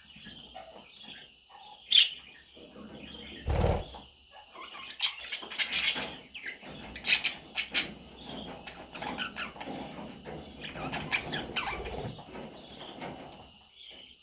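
Budgerigar chicks chirping and squeaking with rustling and wing fluttering in the nest. A sharp click comes about two seconds in, and a low thud about a second and a half later.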